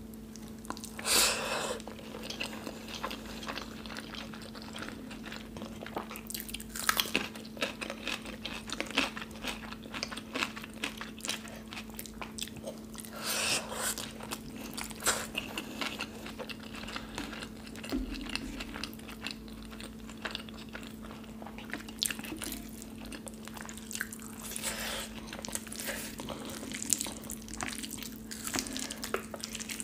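Close-miked chewing and biting of soft Indian food (kadhi pakoda with rice and dal) eaten by hand, with wet mouth sounds and the squelch of fingers mixing rice into the curry. A few louder bites stand out over a steady low hum.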